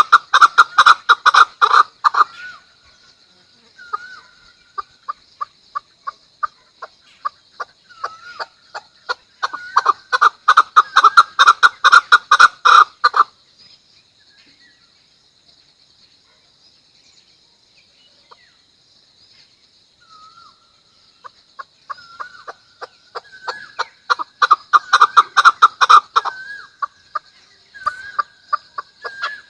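Chukar partridge giving its rally call: three bouts of rapid, repeated 'chuck' notes, the loudest running through the middle. Scattered single notes and a quiet gap fall between the bouts, over a steady high-pitched whine.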